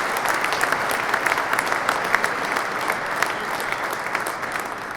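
Audience applauding after a choral song, the clapping slowly dying down near the end.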